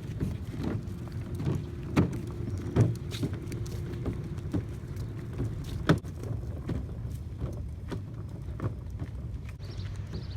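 Footsteps at a steady walking pace, with a low rumble of wind and handling on a hand-held microphone.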